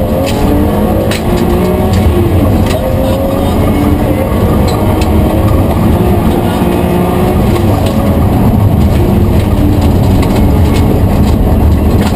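BMW M3 rally car's engine heard from inside the cabin at full stage speed, the revs climbing and dropping repeatedly as it accelerates and shifts, with scattered sharp knocks over the engine noise.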